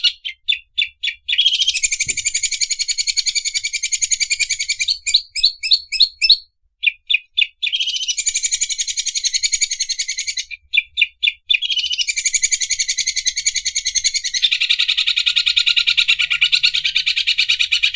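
Cucak ijo (green leafbird) singing its 'mesin obras' song: long, very fast rattling trills like an overlock sewing machine. These alternate with short runs of separate sharp notes, a few a second, at the start, around five to seven seconds in and around eleven seconds in.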